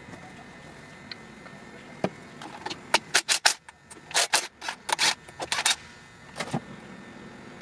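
A quick, irregular run of sharp metallic clinks and clanks from hand tools and loose engine parts being handled on a bare engine block. It starts about two seconds in and dies away after about six and a half seconds.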